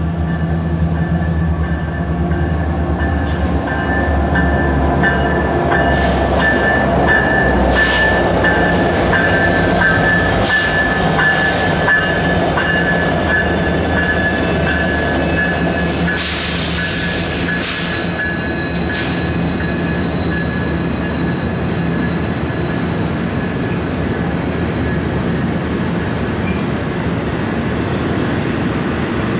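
Freight train rolling past: diesel locomotive engines running under a steady low rumble, with thin high wheel-squeal tones, one of them sliding down in pitch, and scattered clicks from the wheels. The sound swells a few seconds in and eases off after the middle.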